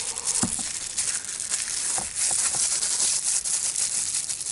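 A steady hiss with a scratchy, rattling texture and a few light knocks.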